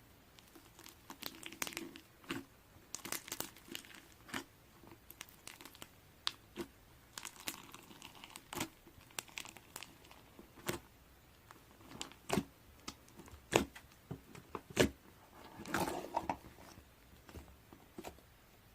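Irregular crinkling and crackling with sharp clicks, on and off, like something papery or plastic being handled.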